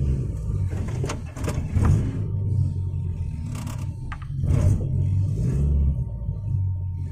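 An off-road 4x4's engine runs at low revs as the vehicle crawls over a rough dirt track. A few short knocks and scrapes come from the bumpy ground.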